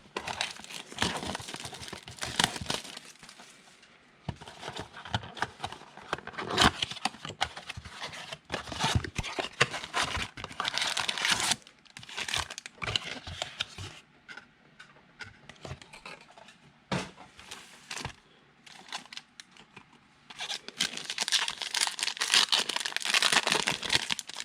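Wrappers on 2020 Absolute football card packs being torn open and crinkled, in several spells of tearing and rustling with short pauses between them.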